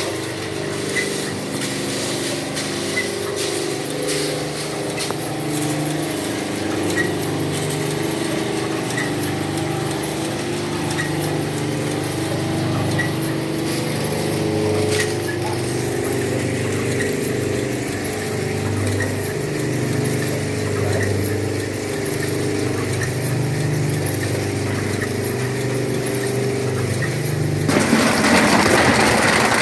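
Scrap-metal shredder running with a steady motor and gearbox hum and a faint tick about once a second. Near the end a much louder, harsh noise sets in suddenly.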